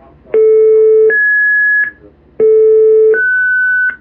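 Dispatch alert tones over a scanner radio: a low tone then a higher tone, each about three-quarters of a second, played twice with a short break. They are the alert that signals a fire/EMS dispatch is about to be read out.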